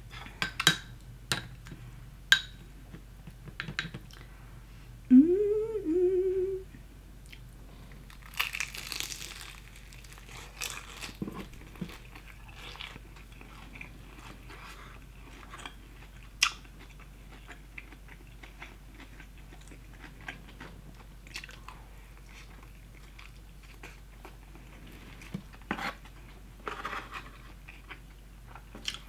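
A person eating Popeyes fried chicken close to the microphone: crisp crunches of the breading and wet chewing, scattered through. About five seconds in there is a short hummed "mmm" that rises in pitch and then holds.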